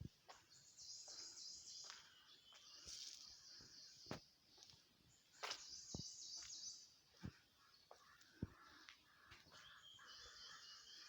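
Faint birdsong: high, rapidly repeated chirping phrases that come and go, with scattered short clicks.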